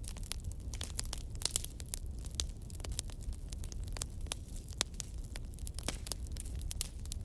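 Wood fire crackling: irregular sharp pops and snaps, a few louder ones about one and a half and five seconds in, over a steady low rumble.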